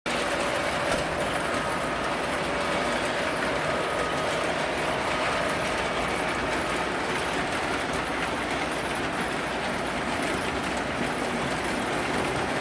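Refrigerator running: a steady mechanical whir with a faint whine in it and no change in level throughout.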